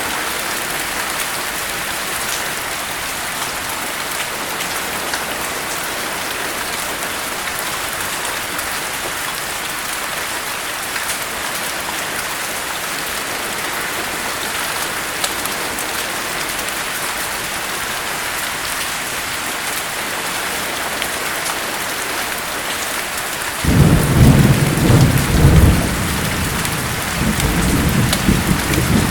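Steady heavy rain with scattered drop ticks. About 23 seconds in, a loud rumble of thunder breaks in suddenly. It eases off and then rolls again near the end.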